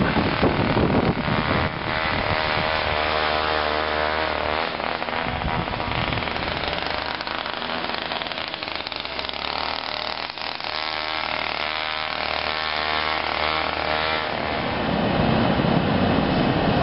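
An engine running steadily, its hum holding from near the start until about two seconds before the end, over a rushing noise.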